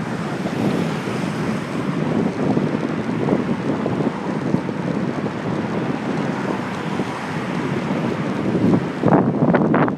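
Wind buffeting a handlebar-mounted phone's microphone during a bicycle ride: a steady, heavy rushing noise. It grows louder and rougher for about a second near the end.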